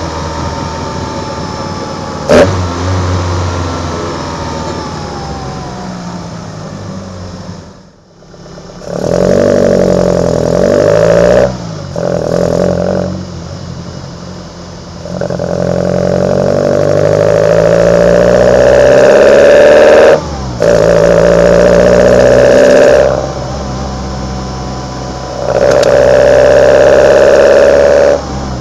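Kadett GS sixteen-valve four-cylinder engine heard close at its twin sidedraft Solex carburetors while driving: the intake sound climbs with revs in several hard pulls, cut short by brief breaks as gears change, with falling revs in between. A sharp crack about two seconds in.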